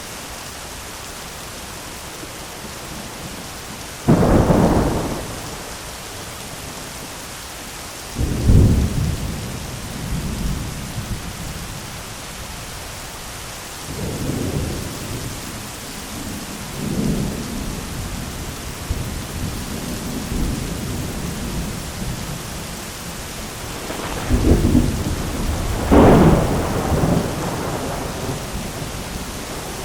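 Heavy rain falling steadily on an umbrella, with thunder several times over it. There are sudden claps about four and eight seconds in, softer rumbles through the middle, and a loud double crack near the end.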